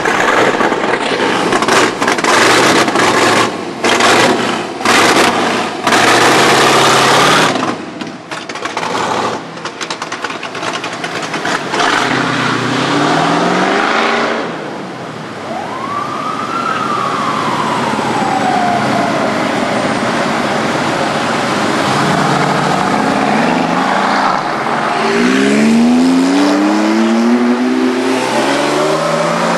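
Sports cars' engines revving and accelerating away one after another, loudest in the first several seconds, with engine notes rising as they pull off. About halfway through, a single siren-like tone rises and then slowly falls.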